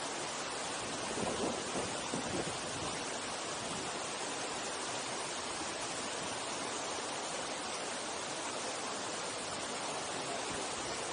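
Steady rush of a mountain stream's flowing water, with a couple of brief soft bumps about one to two and a half seconds in.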